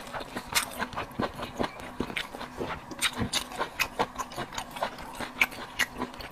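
Close-miked chewing of seafood: irregular wet clicks and smacks from the mouth, several a second.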